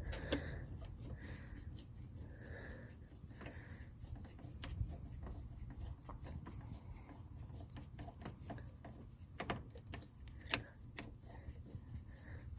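Flathead screwdriver turning the screw of a worm-drive hose clamp on a rubber air-intake hose: faint scraping and ticking, with a few sharper clicks and soft squeaks, as the clamp is loosened.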